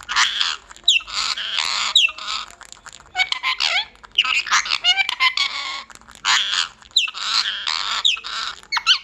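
Pet parrot squawking: a string of harsh, loud calls in bursts of up to a second and a half, with short pauses between them.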